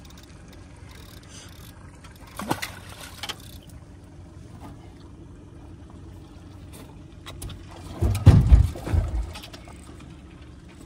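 Water splashing and knocking against a boat hull as a hooked alligator is hauled up alongside: a sharp splash about two and a half seconds in, and a louder cluster of heavy, deep thuds and splashes around eight seconds in.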